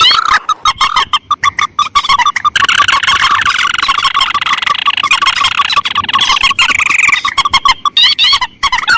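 Bird-lure recording of rice-field rail and crake calls (mandar and tikusan), played loud: rapid, repeated high calls. From about two and a half seconds in, they run into a fast, continuous chatter that lasts until near the end.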